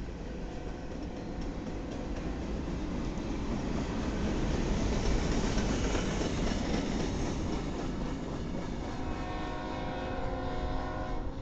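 Freight cars rolling past close by, a steady rumble and rattle of wheels on rail that grows loudest around the middle. From about nine seconds in, a diesel locomotive's chime horn sounds over it.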